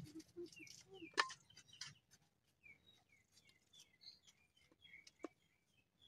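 Faint, repeated chirps of small birds, with a few sharp clicks from the plastic door-handle parts being handled; the loudest click comes about a second in.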